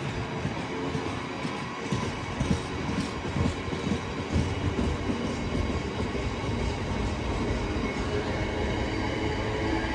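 A train running along the track, with a run of wheel clatter about two to four seconds in, then a steady rumble.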